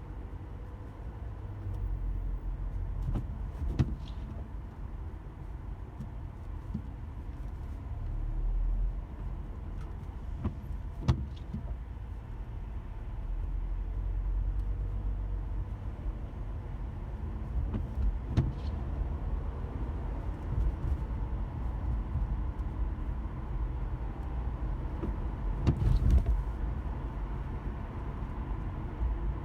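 Car driving slowly in city traffic, heard from inside: a steady low engine and road rumble. A short sharp knock comes about every seven to eight seconds.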